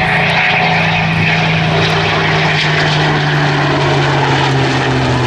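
Supermarine Spitfire's piston engine drone together with the rushing noise of the Typhoon's twin jet engines as the pair fly by in formation. The steady engine note sinks slowly in pitch as they pass.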